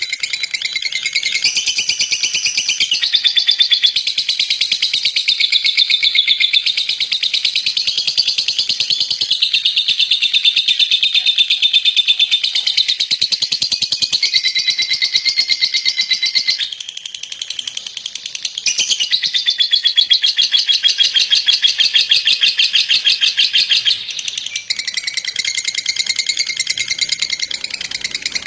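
Lovebird in a long rapid chattering trill ("ngekek"), high-pitched and sustained for many seconds. It eases off briefly about two-thirds of the way through, then carries on.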